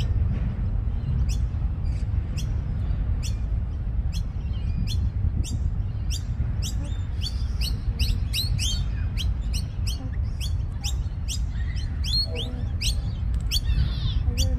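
Small pet birds chirping in a fast series of sharp, high notes that sweep downward, about two to three a second, over a steady low rumble.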